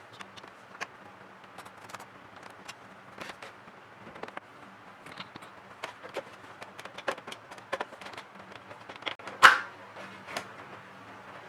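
Irregular light clicks and taps of hard plastic and metal parts being handled, with one louder knock about nine and a half seconds in, over a faint steady low hum.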